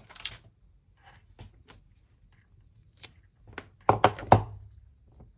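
Craft supplies handled on a tabletop: scattered light clicks and taps, then a few sharper knocks about four seconds in.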